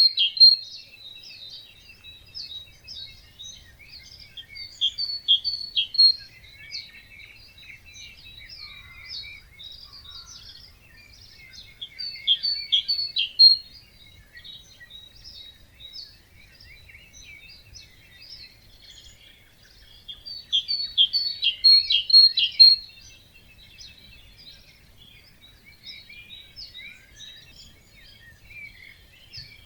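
Birds singing in a wetland dawn chorus: one nearby bird repeats a loud, rapid song phrase about every seven or eight seconds over quieter, continuous twittering from other birds.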